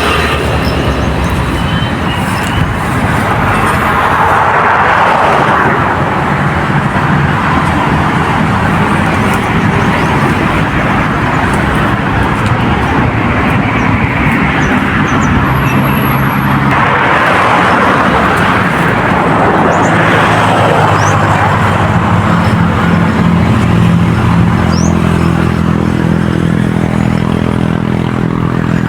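Road traffic passing close by: vehicles going past in waves, each one swelling and fading, with a deeper steady engine hum in the last several seconds.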